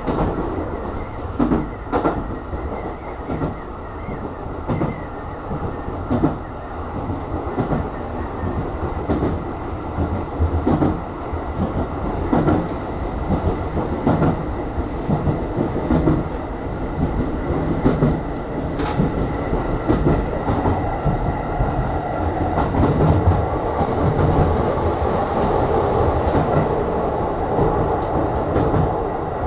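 Electric commuter train running, heard from inside the car: steady running noise with the wheels knocking over rail joints at irregular intervals, the running noise growing a little louder in the second half.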